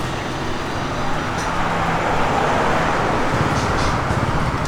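Road traffic noise, with a vehicle passing close by: its noise swells around the middle and then eases off.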